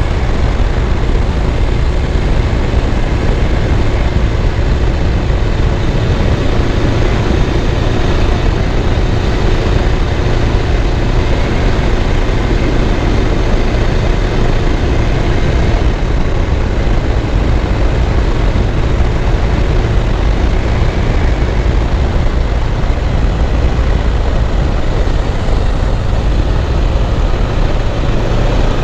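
Suzuki GS500F's air-cooled parallel-twin engine running steadily under way on a climb, under a steady rushing noise.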